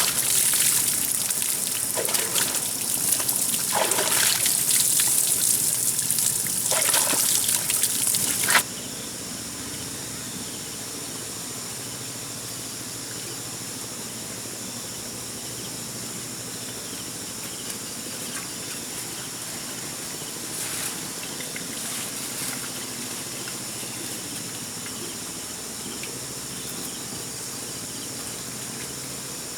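Water trickling and splashing, with a few louder splashes, cutting off abruptly about eight and a half seconds in. After the cut there is a quieter steady outdoor background with faint high steady tones.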